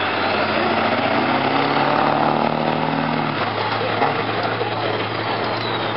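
Pickup truck engine running hard in a mud bog, revving up about a second in, holding the revs, then easing off after about three and a half seconds.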